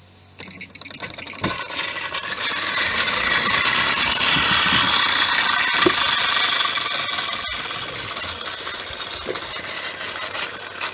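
Model steam traction engines running: a fast metallic rattle of their small gearing and motion over hissing steam. It builds up over the first few seconds, with a few sharp clicks.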